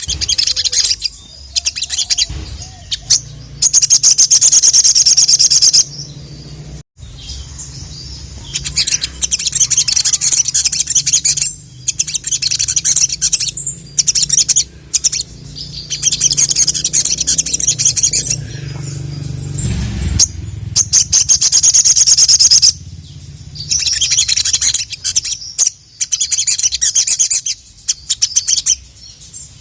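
Sogon (sogok ontong), a sunbird, singing in fast high-pitched trilled phrases, several bouts of a few seconds each with short pauses between them.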